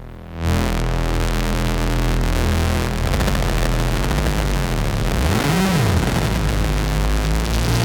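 Novation Circuit synthesizer playing a harsh, noisy drone patch from the Howl preset pack: a dense wall of noise over low droning tones. It jumps up to full loudness about half a second in. A short pitch swoop rises and falls back about five and a half seconds in.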